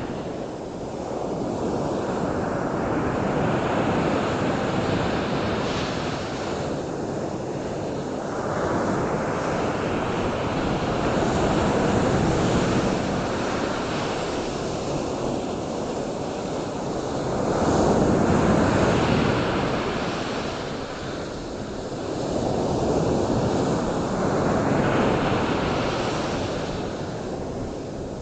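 Ocean surf: waves washing in and falling back, the rush swelling every five or six seconds.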